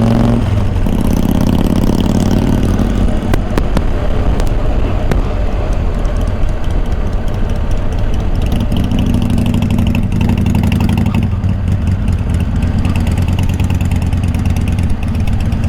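Motorcycle engine idling steadily, a low continuous hum.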